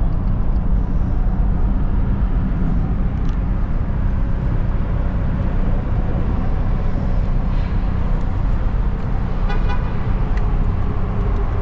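The MG Midget's small four-cylinder engine running steadily, with the open car's wind and traffic noise around it.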